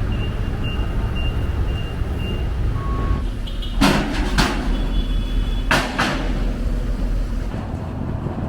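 Truck engine idling with a steady low rumble. A high reversing alarm beeps about twice a second over the first couple of seconds, and two pairs of short, sharp sounds come near the middle.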